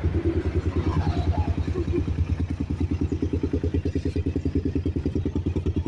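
Suzuki Satria FU 150 motorcycle's single-cylinder engine running steadily at idle with an even, rapid pulse. The stock engine runs smooth.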